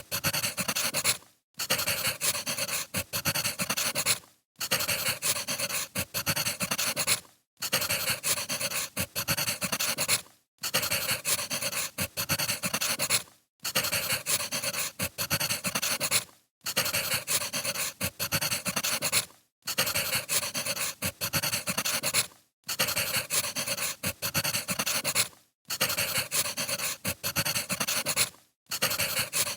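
Wood fire crackling with dense small pops and snaps, played as a short loop that drops out briefly about every three seconds.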